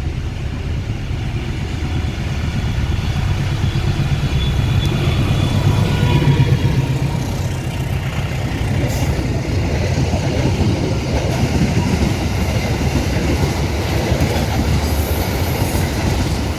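Diesel-hauled passenger train passing close by. A deep engine-and-wheel rumble builds to its loudest about six seconds in, then the carriages roll past with steady rail noise and a clank about nine seconds in.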